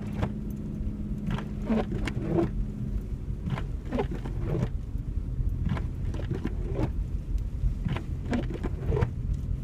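Low rumble of a car driving on a snow-covered road, heard from inside the cabin, with frequent short knocks over it. A steady hum stops about three seconds in.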